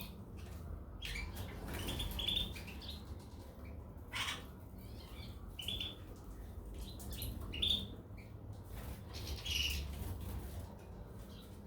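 Goldfinches and canaries calling in short, scattered chirps, with a few sharp clicks among them.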